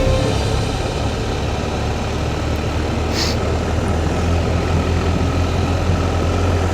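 Motorcycle engine running steadily on the move, a low drone under a wash of wind noise on the microphone. A short hiss cuts in about three seconds in.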